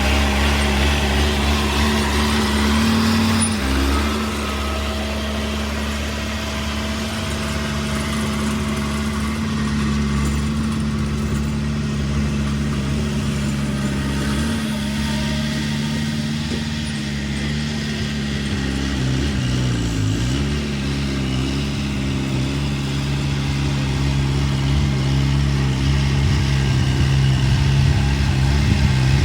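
Diesel engine of heavy construction machinery running steadily. Its pitch shifts a few seconds in, then dips and recovers about twenty seconds in.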